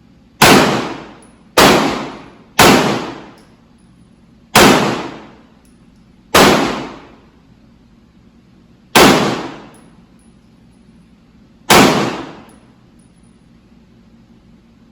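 Seven gunshots fired one at a time at uneven intervals, each a sharp crack with a short ringing decay. They come in a quicker run of three in the first three seconds, then with gaps of about two to three seconds between shots.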